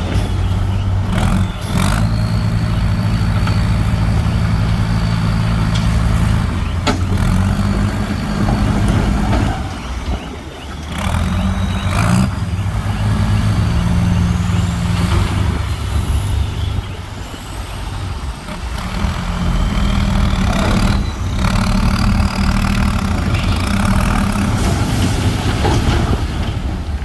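Heavy diesel earthmoving machinery (bulldozers and dump trucks) running under load with a deep, steady engine note that eases off briefly twice. Sharp metallic clanks and thin high squeals come through over the engine now and then.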